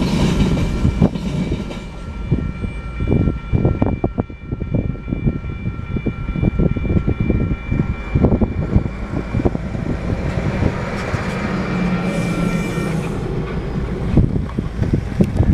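Freight cars rolling past, their wheels clacking and knocking over the rail joints over a steady rumble. A thin high ringing from the wheels runs through most of it and stops near the end.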